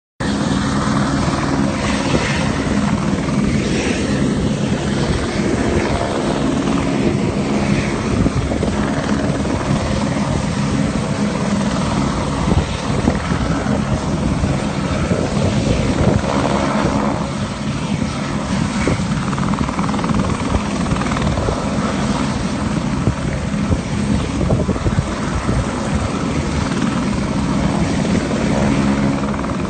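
Helicopter running steadily, the quick chop of its rotor blades over a steady engine hum.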